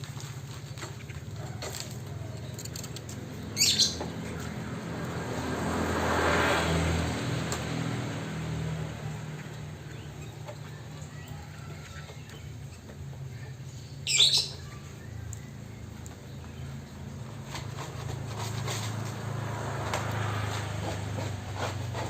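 Chinese hwamei bathing in its cage, fluttering its wings with bursts of splashing and rustling. Two brief high-pitched sounds stand out, one a few seconds in and one about two-thirds of the way through, over a steady low hum.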